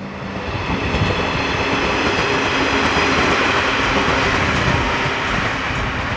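Electric local train running past on the rails, a steady rush of wheel and track noise that builds over the first second and eases off near the end.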